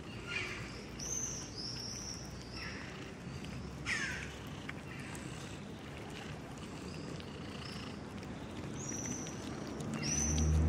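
Birds calling over steady outdoor background noise: a few short harsh calls in the first four seconds and repeated high, whistled chirps.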